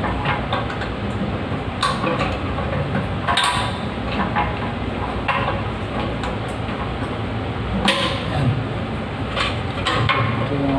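Irregular clicks and knocks of hand tools on a toilet inlet-valve fitting, about six sharp strokes scattered over steady background noise.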